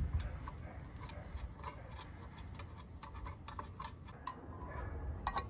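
Faint, irregular clicks and light rubbing from a 1/4-inch ratchet and T30 bit working a screw out of the ATV's plastic panel.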